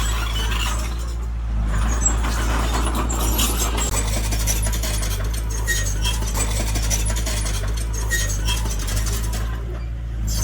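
A heavy diesel machine's engine running steadily, with scattered light clinks and rattles over it.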